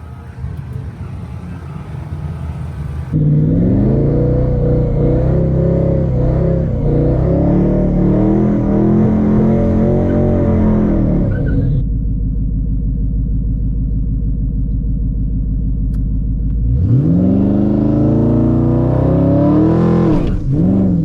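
A twin-turbo Ford F150's engine revving and accelerating hard, its pitch climbing and falling. A steadier, lower stretch in the middle is followed by another rising run near the end, with sudden jumps between sections.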